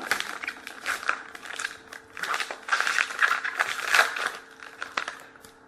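Crinkling foil wrapper of a hockey card pack as it is torn open and handled, a dense run of sharp crackles and rustles that dies away near the end.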